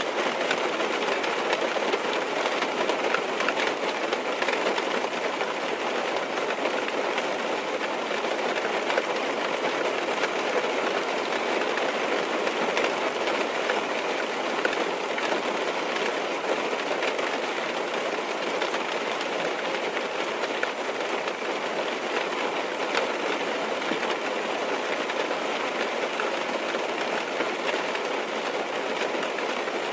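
Steady rain falling on a car's roof and windows, heard from inside the car: an even hiss thick with small drop taps.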